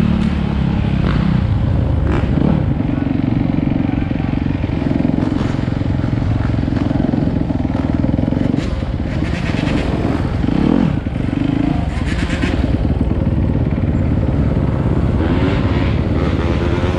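Dirt bike engines running, rising and falling in pitch as they rev a few times.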